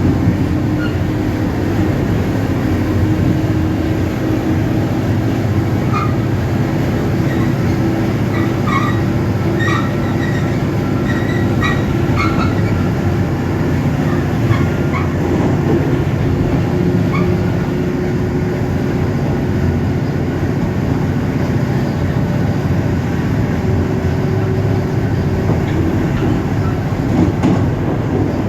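EMD GT26CW-2 diesel locomotive's turbocharged two-stroke V16 engine running steadily under power while hauling a passenger train, over a background of wheel and rail noise. A few brief high squeaks come between about 6 and 13 seconds in.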